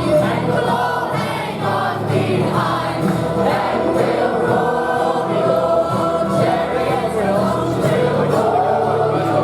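Many voices singing a song together, like a choir, with held notes and a steady low accompaniment underneath.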